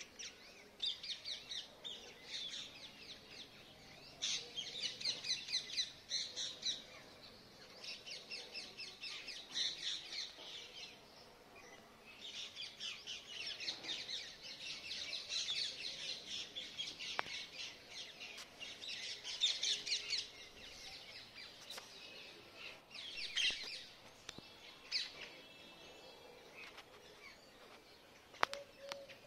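Birds chirping in bouts of rapid, high chirps, each bout lasting a second or two, with short pauses between.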